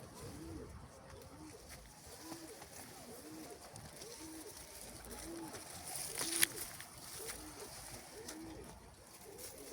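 A dove or pigeon cooing, short low coos repeated about once a second. A single sharp click comes about two-thirds of the way through.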